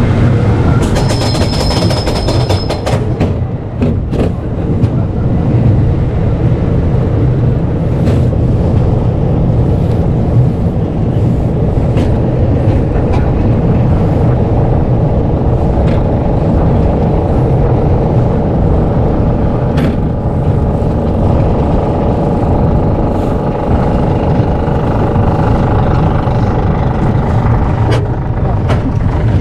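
Roller coaster train climbing its chain lift: a steady low mechanical rumble with scattered clicks and rattles.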